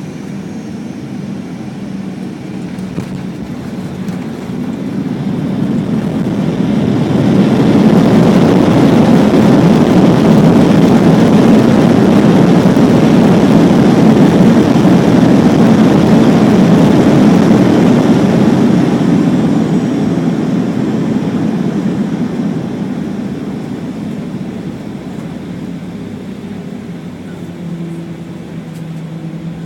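Boeing 737-800 heard from inside the cabin on landing: the CFM56 engines' reverse-thrust roar builds over a few seconds, holds for about ten seconds, then dies away as the aircraft slows on the runway, leaving a steady cabin hum.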